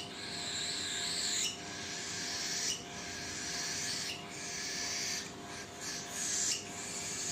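Cockatiel chick making raspy, hissing food-begging calls, each about a second long, one after another with short breaks: the chick is still hungry.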